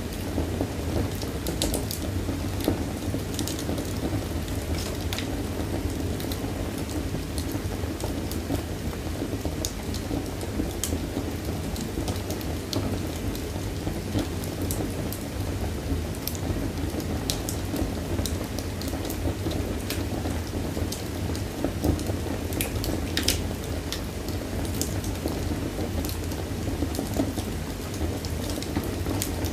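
Wood fire burning in a fireplace: a steady low rumble of the flames with irregular crackles and pops, one sharper pop a little past two-thirds of the way through.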